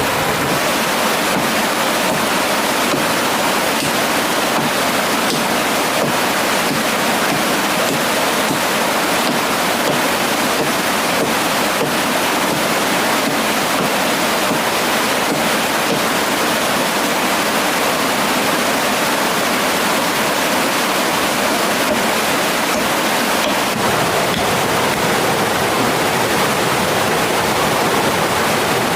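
Mountain stream water rushing steadily, with a few faint clicks scattered through it.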